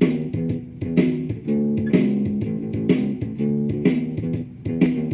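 Lava ME4 guitar playing a classic blues loop through effects pedals and a Donner Cyclops, plucked notes in a steady repeating rhythm, about two a second.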